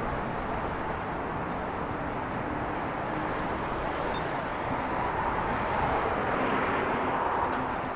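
Steady road traffic noise, swelling as a vehicle passes about five to seven seconds in.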